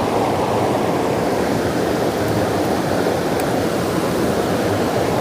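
Mountain stream water rushing steadily, a loud, even noise of flowing water.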